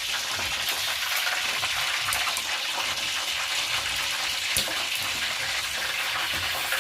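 Chicken pieces frying in hot oil in a pan: a steady sizzle with scattered crackling pops.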